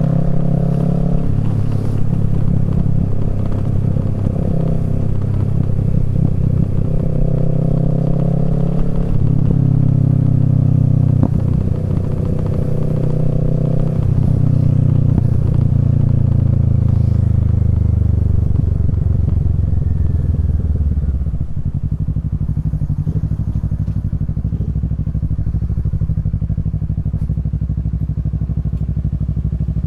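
Kawasaki Z650's parallel-twin engine through a Yoshimura Alpha exhaust, riding at moderate revs with a few gear changes, then slowing and settling into a steady idle about two-thirds of the way through.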